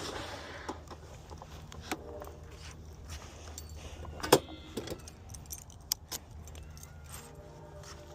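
Small metal objects jingling and clicking irregularly over a steady low hum, with one sharper click a little past halfway.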